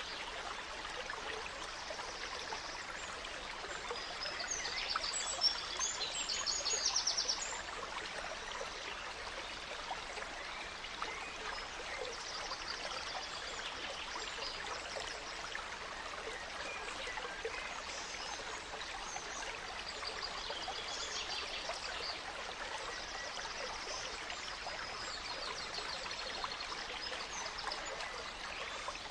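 A gentle stream running steadily, with songbirds singing over it now and then; the loudest bird phrases come about five to seven seconds in.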